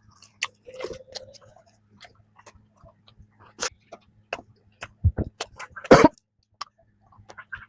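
Close-up chewing of a flaky strawberry danish, its crisp pastry layers crunching and crackling in irregular bites, with the loudest crunch about six seconds in.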